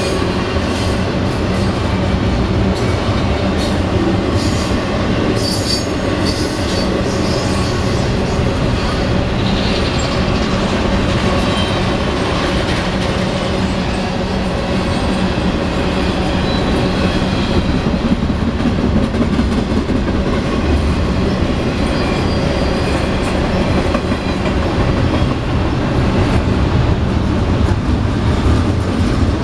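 Norfolk Southern intermodal freight train rolling past, its loaded well cars and trailer cars rumbling and clattering steadily over the rail joints. High wheel squeal runs through it, with sharp clacks over the first several seconds.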